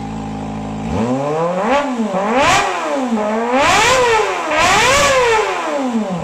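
Kawasaki ZX-25R motorcycle engine idling through a custom-built stainless exhaust, then revved four times in quick blips, each rise in pitch falling back before the next, before settling to idle again near the end.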